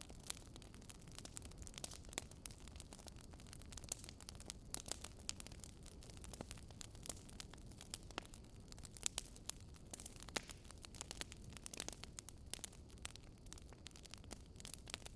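Fireplace fire crackling: irregular sharp pops and snaps, several a second, over a faint low steady noise, with the loudest snap about nine seconds in.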